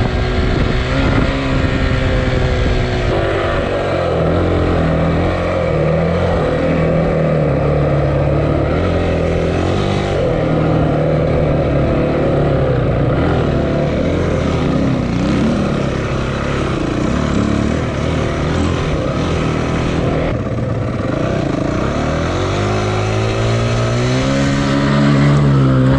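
Dirt bike engine running, its pitch holding fairly steady for long stretches and rising and falling as the throttle is worked, with a rise near the end.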